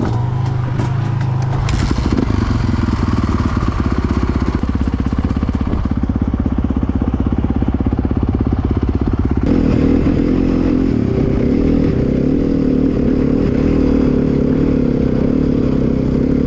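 Dirt bike engine running under way as it is ridden, a steady pulsing engine note. The note changes abruptly about nine and a half seconds in, becoming deeper and fuller.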